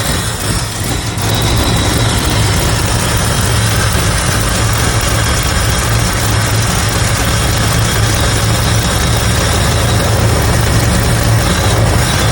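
1973 Ford F-250's engine running at a steady idle, a loud low hum that settles a little louder about a second and a half in.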